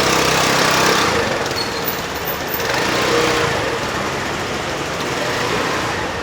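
Motor vehicle engines passing on a city street. The engine noise swells near the start and again about three seconds in.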